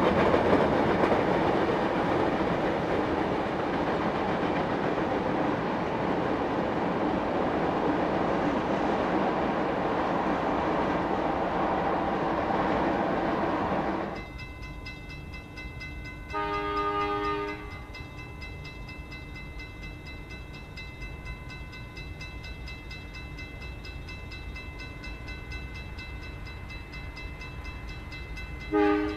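Tank wagons of an oil train rolling over the rails in a steady rumble that slowly fades. About halfway through, this gives way to the quieter running of approaching diesel locomotives, which sound their horn for about a second and again briefly near the end.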